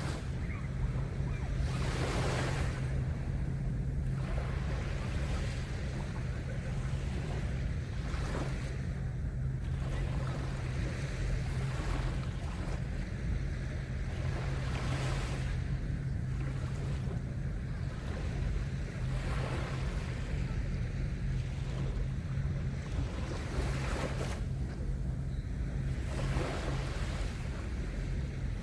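Small sea waves breaking and washing onto a sandy beach, swelling every few seconds, over a steady low hum and some wind rumble.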